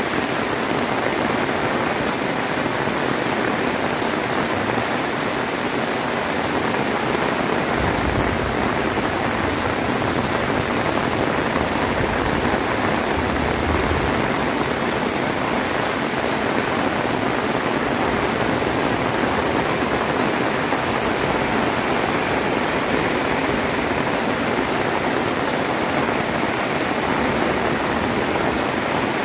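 Heavy rain pouring steadily, a dense even hiss. A faint low rumble joins it about eight seconds in and again a few seconds later.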